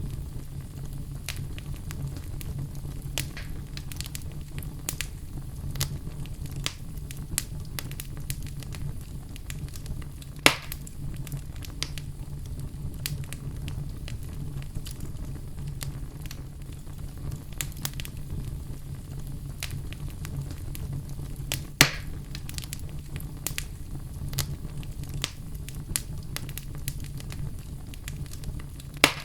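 Wood fire crackling in a fireplace: a steady low rumble under a constant scatter of small crackles, with three louder pops, about ten seconds in, about twenty-two seconds in and near the end.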